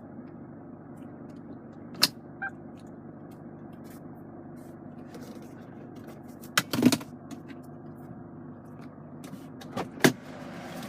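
Chevrolet Captiva 2.2 VCDI turbo diesel idling steadily, heard from inside the cabin, with a few sharp clicks and knocks about two, seven and ten seconds in.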